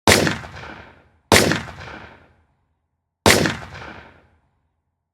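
Three rifle shots about 1.3 and then 2 seconds apart, each a sharp crack that trails off over about a second, with a fourth shot right at the end.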